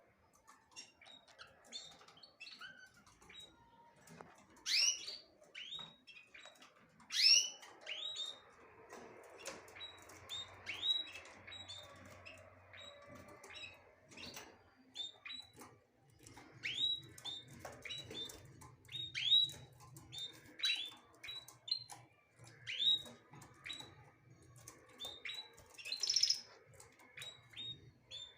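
Small birds chirping: a steady stream of short, sharp chirps, several a second, with a few louder calls about five and seven seconds in.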